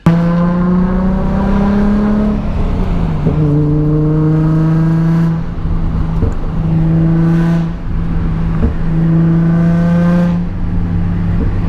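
Nissan 350Z's 3.5-litre V6 running under way, heard as a steady engine drone with a clear pitch. The pitch drops about two and a half seconds in, and the sound eases off briefly three times later on.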